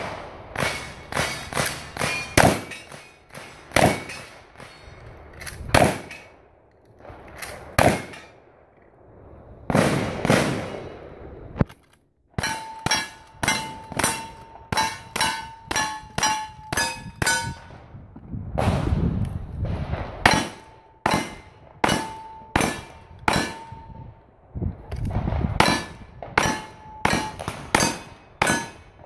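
Repeated sharp metallic clanging strikes, some leaving a short ringing tone. They come in uneven runs, stop briefly about twelve seconds in, then return as a quicker run of about two to three strikes a second.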